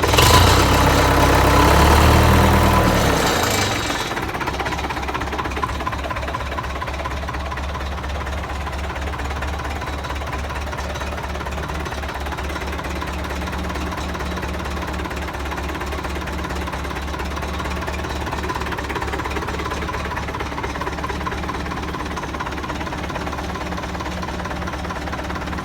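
UTB 650 tractor's four-cylinder diesel engine running through a muffler modified to reduce noise and vibration. It is louder for the first four seconds, swelling around two seconds in, then settles to a steady, even run.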